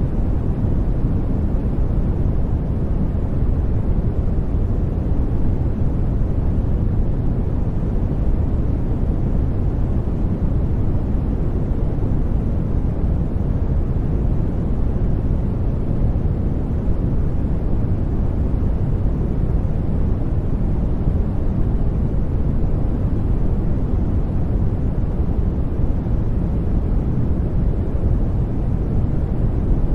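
Sleep-aid noise track: a deep, steady hiss weighted heavily toward the low end, unchanging throughout.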